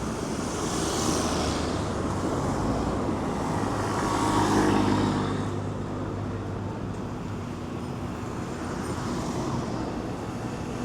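City street traffic: motor vehicles pass, one swelling in and out about four to five seconds in with a low engine hum.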